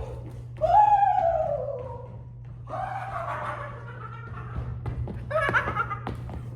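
A person's voice making long, wordless, high-pitched calls, three in a row, each sliding down in pitch, over a steady low electrical hum.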